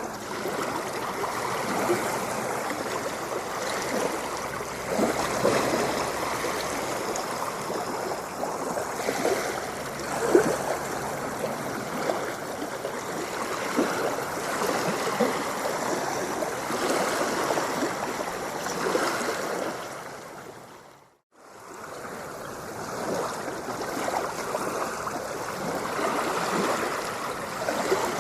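Continuous running water, bubbling and splashing steadily. About three-quarters of the way through it fades out to silence and swells back within a second, as at the join of a looped recording.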